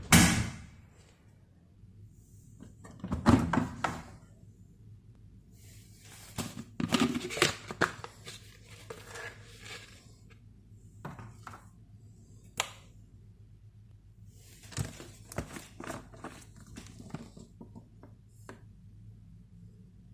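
Kitchen food-prep handling sounds: a knock at the start, then scattered taps, clicks and short bursts of rustling and tearing as utensils and packaging are handled, over a faint steady low hum.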